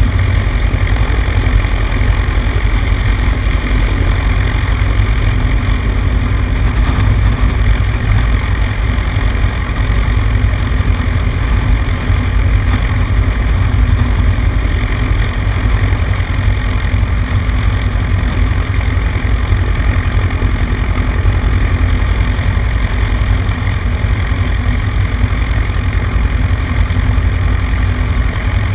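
Cessna 150's four-cylinder Continental O-200 engine and propeller running steadily, picked up by a camera on the right wing, with a heavy low rumble and a constant rushing noise.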